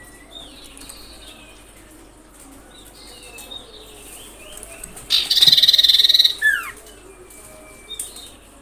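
Common iora calling: thin gliding whistles, then a loud harsh rattling trill about five seconds in lasting just over a second, followed by a couple of quick falling whistle notes.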